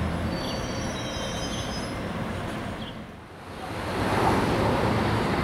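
Electric commuter trains running on the track: a steady rumble from a single-level EMU train, a short break about three seconds in, then louder rail noise as another train approaches.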